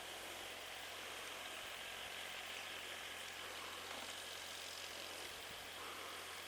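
Small farm tractor engine running steadily at a distance: a faint low hum under an even hiss.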